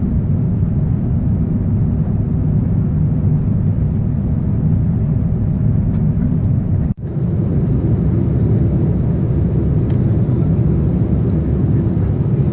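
Steady low rumble of engine and airflow noise inside the cabin of an Airbus A350-941 airliner. It cuts out for a moment about seven seconds in, then carries on as before.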